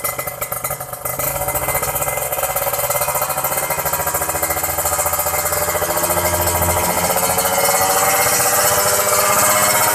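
Kawasaki Ninja 150RR two-stroke single-cylinder engine running through an aftermarket exhaust with a crisp, raspy note. From about a second in, its revs and loudness climb steadily.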